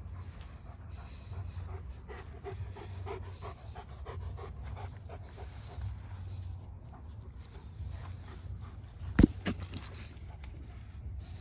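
A dog panting in quick, steady breaths. A sharp knock comes about nine seconds in, with a smaller one just after it.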